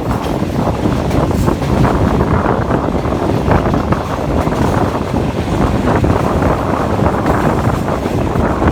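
Steady rush of wind buffeting the microphone, over the rumble of a moving passenger train.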